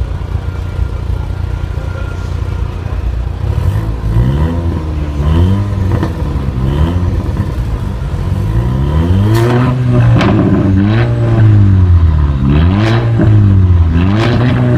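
Tuned Volkswagen Golf VI R's turbocharged 2.0-litre four-cylinder, through a valve exhaust system, idling and then revved again and again in short blips, each one rising and falling in pitch. The blips get louder about halfway through, and a few sharp cracks come as the revs drop.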